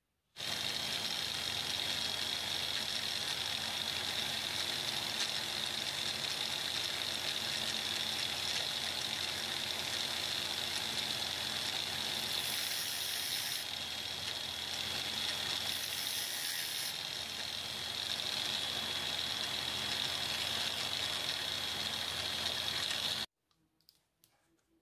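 Angle grinder with a cut-off disc running steadily with a high whine, with two brief bursts of grinding as a metal cable end is pressed against the disc, then switched off and winding down abruptly near the end.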